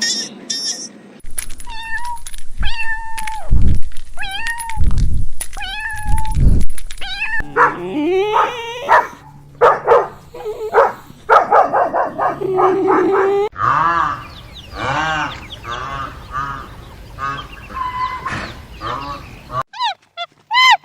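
Farm animals calling in a run of short clips, with repeated pitched cries. The kind of call changes abruptly several times.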